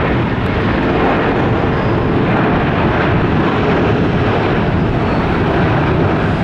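Jet airliner engines running loud and steady, a broad rumble that neither rises nor falls much.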